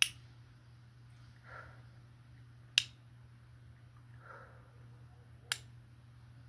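Three sharp snaps, evenly spaced about two and a half seconds apart, with a soft swish between each pair, over a steady low hum.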